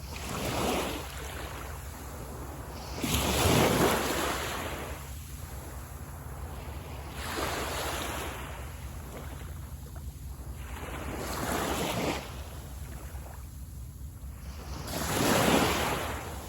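Sea waves washing in on a beach: five surges of surf, one every three to four seconds, each swelling and fading away, the loudest a few seconds in and near the end.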